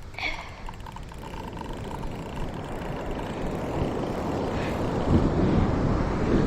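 Ocean surf washing on the beach, a low rushing noise that builds louder over the last couple of seconds, with a short run of faint ticks at the start.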